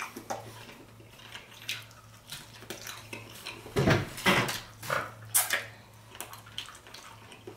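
A person biting into and chewing a sauced buffalo chicken wing: a run of short wet clicks and smacks from the mouth, loudest about four seconds in and again about five and a half seconds in, over a faint steady low hum.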